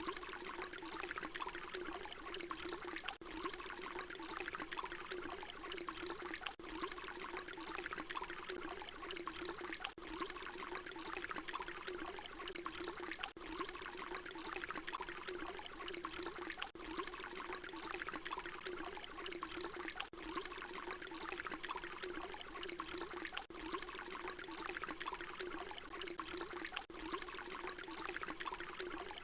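Water pouring in a steady continuous stream. It is a short recording looped over and over, with a brief dip in level every three seconds or so where the loop repeats.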